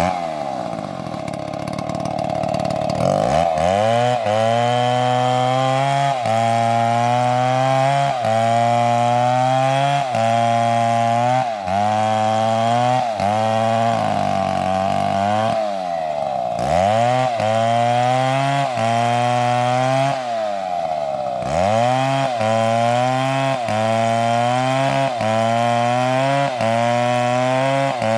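Two-stroke chainsaw cutting wood. The engine's pitch sags under load and recovers about once a second as the chain bites, and it briefly runs at a steady high rev near the start, about halfway through and again around two-thirds through.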